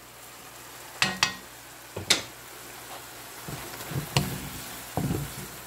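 Chicken pieces and onions sizzling in a frying pan as a wooden spoon stirs them, with a few sharp knocks of the spoon about a second in, at two seconds and near four seconds.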